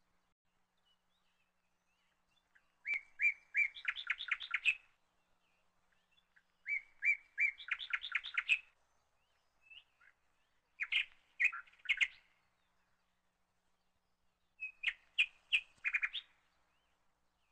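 A songbird singing four short phrases a few seconds apart, each opening with a few repeated notes and running into a quick trill of higher notes.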